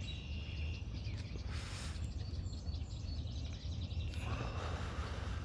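Outdoor ambience: a steady low rumble, with faint bird chirps and a brief rustle about a second and a half in and again near the end.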